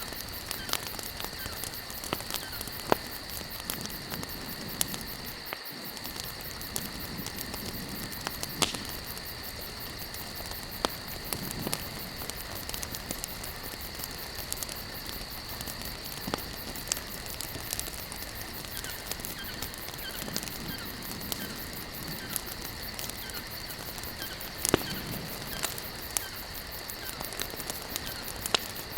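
Wood campfire crackling, with frequent sharp pops and a couple of louder snaps. A steady high-pitched chirr runs underneath.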